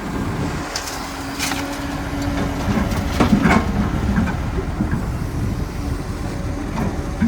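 Heavy diesel construction machinery running steadily, with a few sharp knocks and rattles over the engine, the loudest about three and a half seconds in.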